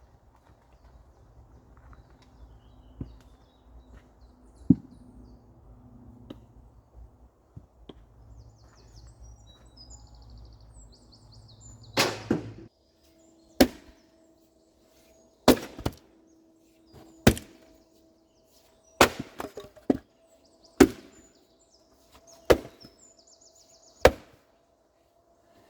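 Firewood being chopped: sharp wooden hits come about every one and a half to two seconds from about halfway in. Before that a low steady rumble runs under a few faint knocks and cuts off suddenly just before the chopping starts.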